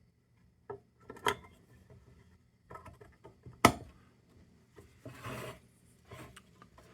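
Small lantern parts being handled on a bench: a few sharp clicks and knocks, the loudest about three and a half seconds in, and a short scraping rub about five seconds in.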